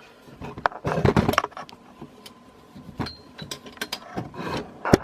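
Irregular clicks, knocks and rattles from handling the ceiling fan's hardware and its speed control, with a louder clunk near the end.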